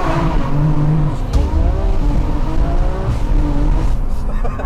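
Single-turbo BMW F80 M3's straight-six engine accelerating hard, heard from inside the cabin, its pitch gliding and shifting as it pulls.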